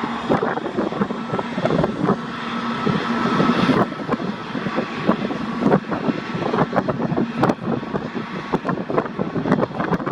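Jet airliner engines running at an airport, a steady whine with faint held tones that fade away about four seconds in. Wind buffets the microphone in many short, irregular gusts throughout.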